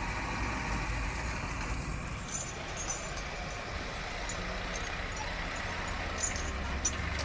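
Swaraj tractor diesel engine running steadily, with a few faint clicks over the low rumble.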